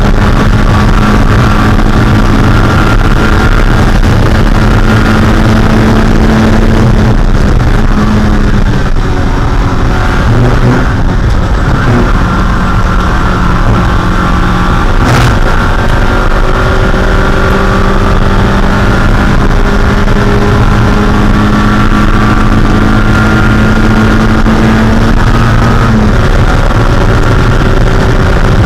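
Mazda Spec Miata's 1.6-litre four-cylinder engine running hard at high, nearly steady revs, with wind and road noise around it. The engine note dips briefly about ten seconds in and then climbs back. A single sharp click comes about halfway through.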